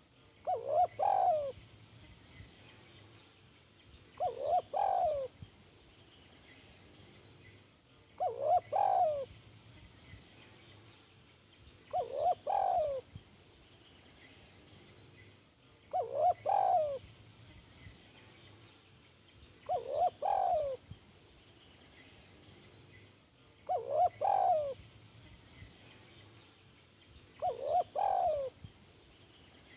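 Spotted dove (tekukur) cooing: a short phrase of a few low notes, about a second long, repeated about every four seconds, eight times. This is the song type that Indonesian keepers call 'kuk 1'.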